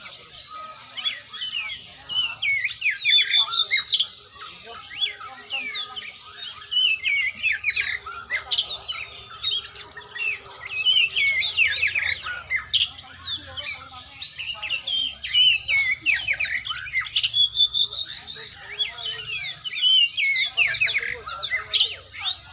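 Oriental magpie-robin (kacer) singing a fast, varied song of whistled notes and quick sweeping chirps.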